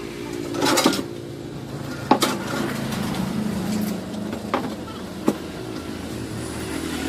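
An engine running steadily at a low, even pitch, with several sharp metallic knocks and clinks over it.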